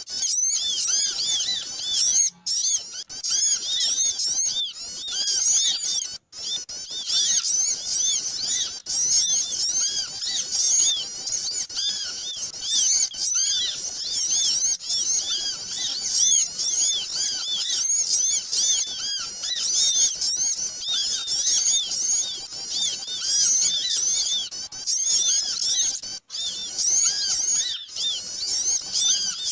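Many small birds chirping and twittering at once, a busy, noisy chorus of rapid high arched calls used as a lure call for small birds. A few brief sudden gaps break it.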